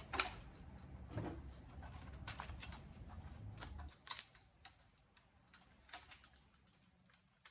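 Scattered light clicks and taps of a metal and plastic home theater unit being handled and pried apart, busier in the first few seconds and then only the odd click.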